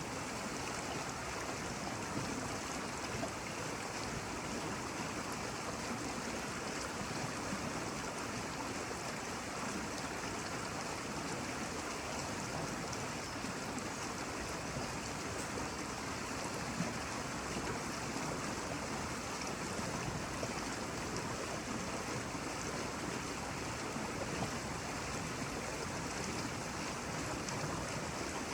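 Flowing water, a steady, even rush with no surges or breaks.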